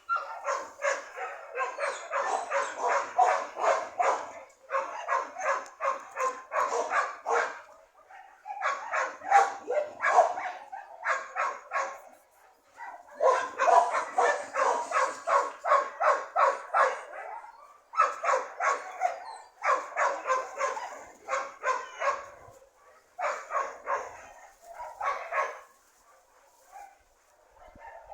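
A dog barking in fast volleys of about four or five barks a second, each volley lasting a few seconds with short pauses between, ending near the end.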